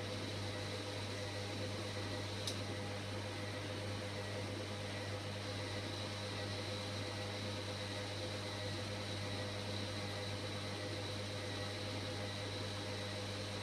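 Hoover Logic washing machine running with a steady hum and one sharp click about two and a half seconds in.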